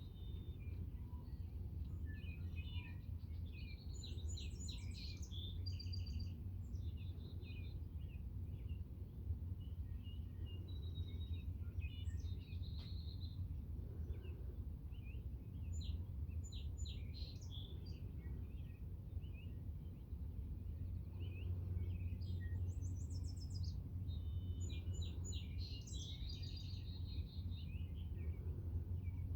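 A songbird singing bouts of rapid, rattling trills and chatter, with scattered single chirps between, over a steady low rumble.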